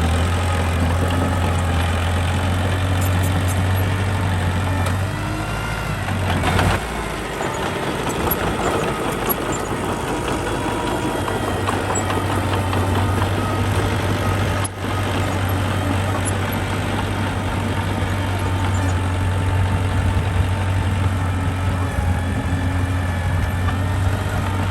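Diesel engine of heavy earthmoving equipment running steadily with a low hum. The note dips for a couple of seconds, with a sharp knock about six and a half seconds in. There is a brief break near the middle.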